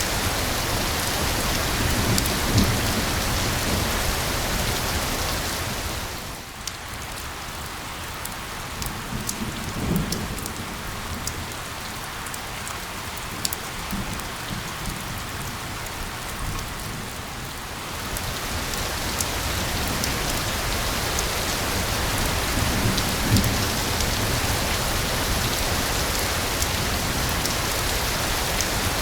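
Steady rain falling, with a few low rumbles. About six seconds in it softens for roughly twelve seconds, when separate drops can be heard ticking, then swells back to full strength.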